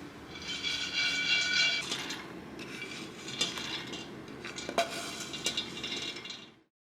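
Kitchen utensils clinking and scraping against cookware: a ringing clink in the first couple of seconds, then several sharp knocks and clicks, fading out near the end.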